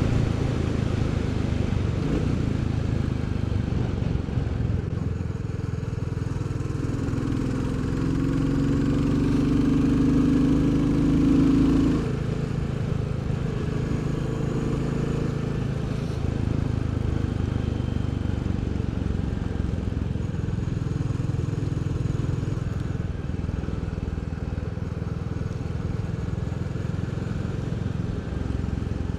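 Royal Enfield Bullet 350's single-cylinder four-stroke engine running under way. Its note swells and rises slightly for a few seconds about a quarter of the way in, then drops back suddenly to a steady cruise.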